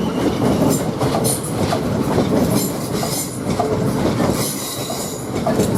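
South Western Railway Class 450 Desiro electric multiple unit moving along the platform: steady wheel and rail noise with brief high-pitched squeaks scattered through it.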